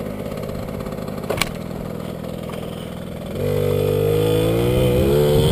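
Mini dirt bike engine running at low throttle. About three and a half seconds in, the throttle opens and it gets louder, revving up with a steadily climbing pitch.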